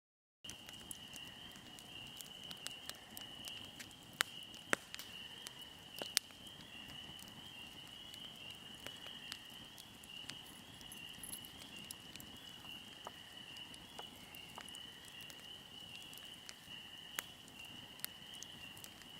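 Fire burning and crackling, with irregular sharp pops over a soft hiss, starting about half a second in; a steady high insect trill, cricket-like, runs underneath.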